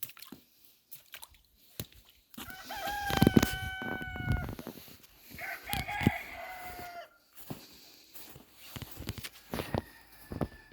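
A rooster crowing twice, two long, even-pitched calls of about two seconds and one and a half seconds, with scattered clicks and knocks around them.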